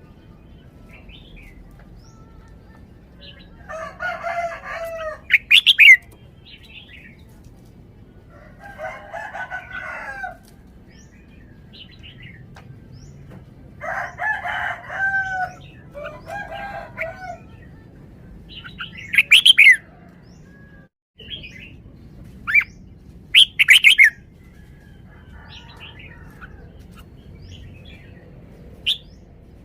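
Red-whiskered bulbul singing in short, separate warbling phrases, then giving a few sharp, loud, high notes.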